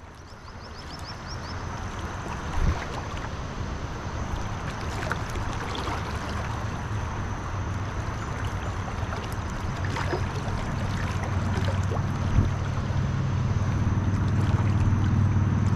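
Wind on the microphone over the rush of river water, with a few faint clicks; a low drone builds in over the last few seconds and grows louder.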